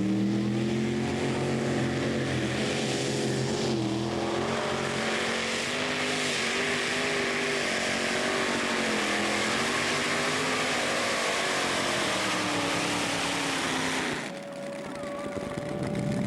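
Tractor-pulling machine's engine running hard under load during a pull. Its pitch climbs over the first few seconds, then holds with small wavers, and the sound cuts off suddenly about fourteen seconds in.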